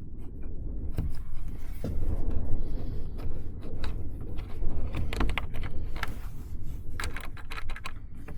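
Scattered clicks and light rattles of small objects being handled, over a steady low rumble.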